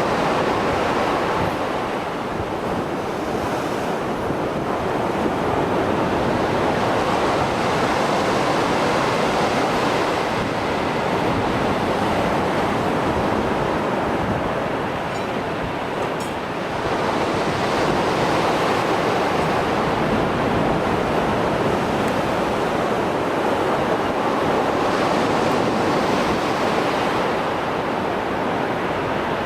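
Mediterranean Sea surf, still rough after a storm, breaking and washing on the shore in a continuous roar of water that swells and eases every several seconds.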